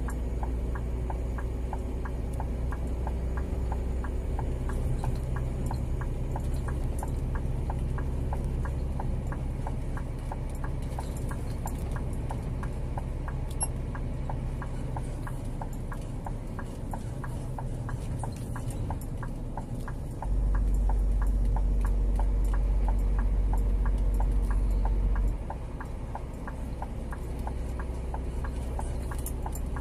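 Scania G 410 truck's inline-six diesel engine running with a steady low drone, and a quick, regular ticking over it. About twenty seconds in, a deeper, louder drone comes in for about five seconds, then drops away.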